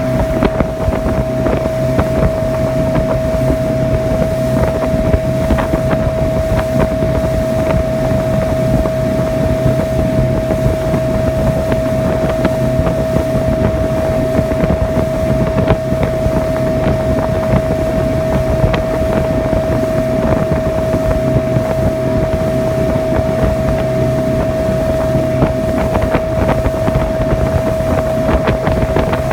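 Motorboat engine running steadily at cruising speed, with a constant whine at one pitch over the noise of the boat moving through the water. Wind buffets the microphone.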